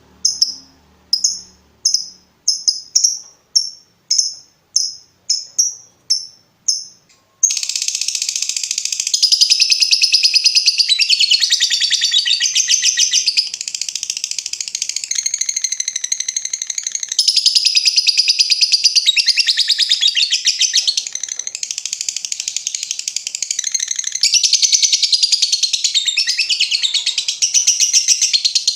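Lovebird song: a run of separate sharp chirps that quicken to about three a second (the 'ngetik' ticking). About seven seconds in, it breaks into a long, unbroken rapid chatter (the long 'ngekek') that goes on for over twenty seconds.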